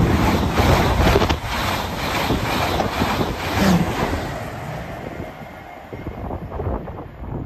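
LNER Azuma high-speed train passing through the station at speed: a loud rush of air and rail noise with quick clatter from the wheels, fading away over the last three seconds as the train draws off.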